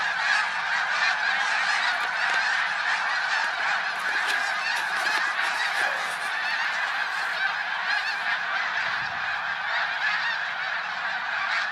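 A huge flock of geese, thousands of birds, honking together in a dense, unbroken din as the disturbed flock hangs over the field and starts to settle back down.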